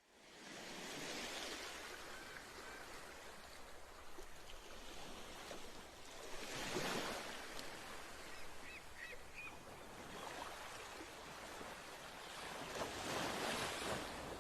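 Faint ocean waves washing in, swelling and fading every few seconds, with a few short high chirps about nine seconds in.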